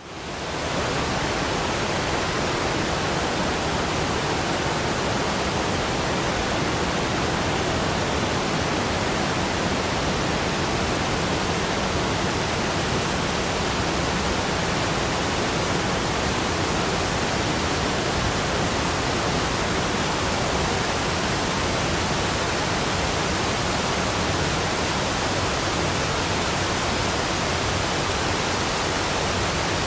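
Rushing waterfall: a steady, even rush of falling water, fading in over the first second and then holding unchanged.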